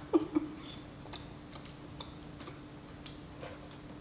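A mouthful of tteokbokki being chewed close to the microphone: soft, irregular wet mouth clicks and smacks, after a short louder sound with falling pitch just as the food goes in. A steady low hum runs underneath.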